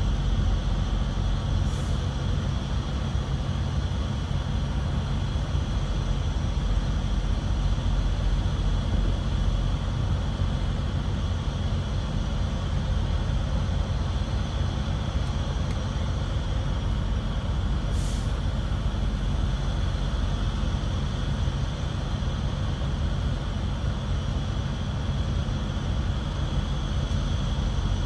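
Semi-truck's diesel engine running steadily at low speed while the rig is parked, with two short hisses, about two seconds in and about eighteen seconds in.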